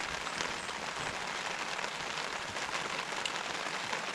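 Heavy rain falling steadily on a tent and tarp: a dense, even patter of drops.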